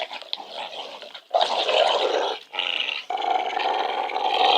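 A dog play-growling while tugging on a frisbee in a tug-of-war game: long, rough growls with short breaks, louder after the first second.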